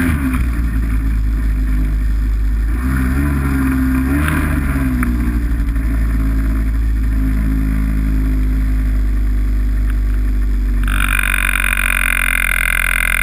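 Snowmobile engine running under way, its pitch rising and falling a few seconds in. A steady, higher-pitched sound joins in near the end.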